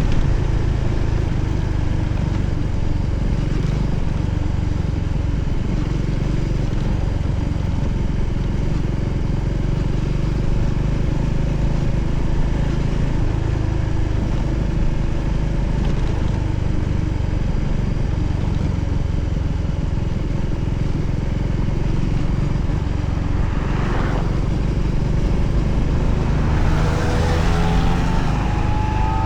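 Voge 300ACX motorcycle engine running steadily on the move. In the last few seconds a second tone rises in pitch, as from a change in revs or another passing vehicle.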